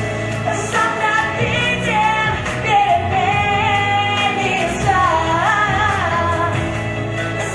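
A woman singing with band accompaniment in a gospel style, with long held notes and sliding runs.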